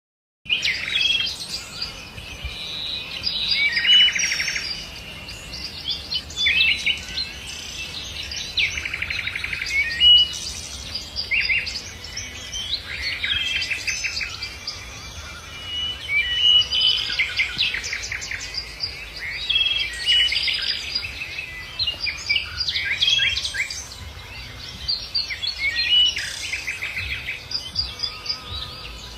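Songbirds singing in the open, short chirping phrases repeating every second or two, with a faint low rumble underneath.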